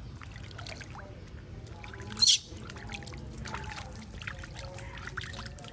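Water pouring and trickling, with scattered small clicks and one short, loud hiss about two seconds in.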